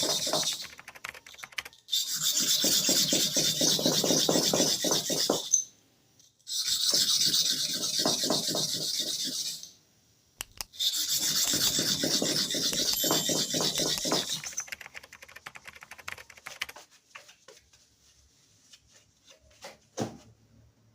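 Bottom hair clipper blade rubbed back and forth on a super hard manual sharpening stone: three bouts of rapid scraping strokes, each a few seconds long, with short pauses between. After the third bout only light scattered scrapes and taps remain.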